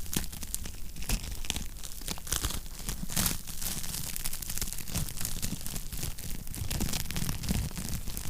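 Wood fire crackling in a fireplace: frequent sharp pops and snaps over a low, steady rumble of the flames, with a louder pop about three seconds in.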